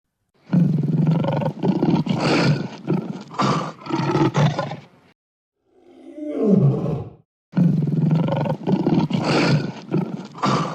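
Lion roaring: a run of rough, pulsing roars, then a shorter call falling in pitch about six seconds in, then the same run of roars again from about seven and a half seconds in.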